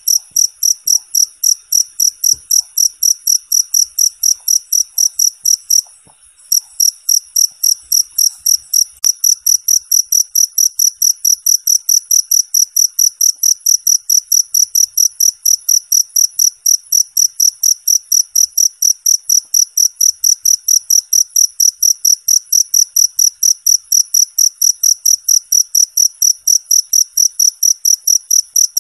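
Cricket chirping loudly in a fast, even rhythm of several high-pitched chirps a second, with a brief break about six seconds in.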